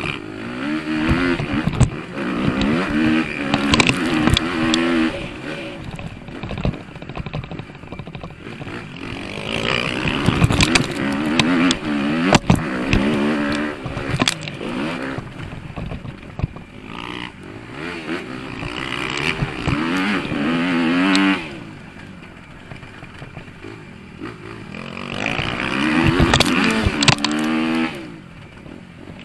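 Motocross bike engine heard from the bike itself, revving hard and climbing through the gears in repeated runs of throttle. It drops back twice, about two-thirds of the way in and near the end, with knocks and clatter from the rough track.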